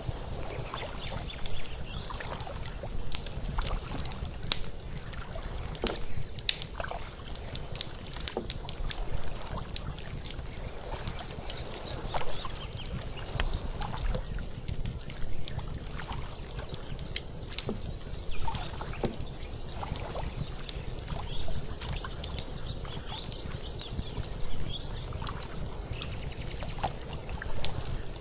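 Water lapping against the shore mixed with a wood fire crackling, with many sharp irregular pops and snaps over a steady low wash.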